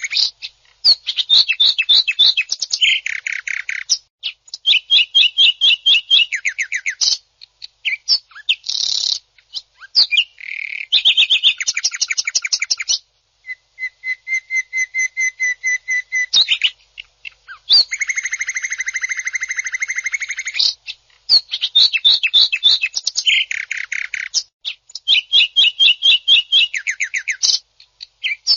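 Cucak ijo (green leafbird) singing harsh, rapid 'tembakan kasar' phrases: bursts of fast rattling trills and buzzy notes, repeated with short pauses between them.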